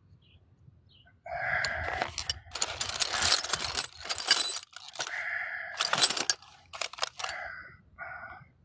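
Metal sockets clinking and rattling against each other as they are rummaged through in search of a 10 mm socket, in uneven clattering bursts after a brief quiet start.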